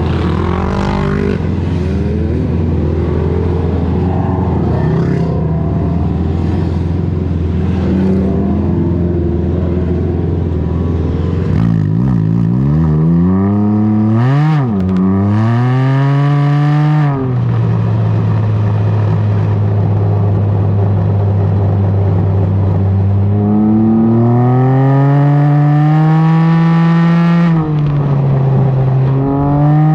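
Can-Am Ryker three-wheeler engine running through a BKD Insomnia series aftermarket exhaust. It runs at a steady pitch, swings up and down in pitch a couple of times in the middle, then climbs steadily in pitch over the last several seconds.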